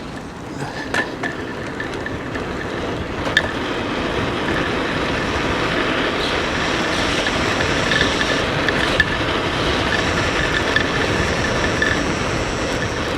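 Electric mountain bike with a Bafang 1 kW motor riding along a dirt trail: a steady rush of tyre and wind noise that slowly grows louder, with a thin steady high whine and a few sharp knocks from the bike.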